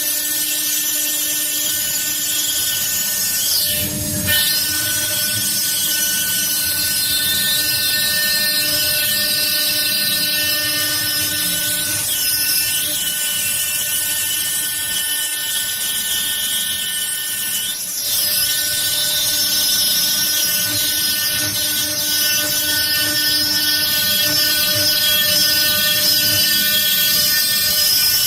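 CNC stone engraving machine at work: the high-speed spindle runs with a steady whine while the cutter grinds into the stone with a gritty hiss, with a brief low knock about four seconds in.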